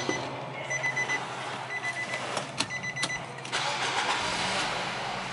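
Nissan X-Trail 20X being started: an electronic warning chime beeps in short pips and a few clicks follow. About three and a half seconds in, the 2.0-litre four-cylinder engine starts, flares up briefly, then settles into a steady idle.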